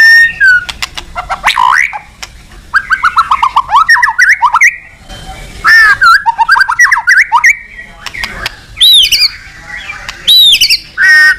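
White-rumped shama (murai batu) singing loudly in varied whistled phrases: quick rising and falling notes and fast repeated trills, with short pauses between phrases. It is a vigorous territorial song of the kind used to call out rival males.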